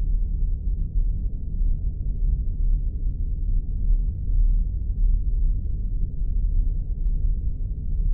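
Spaceship sound effect: a steady, deep, unbroken rumble, muffled with no high end, like a starship's engines heard from inside.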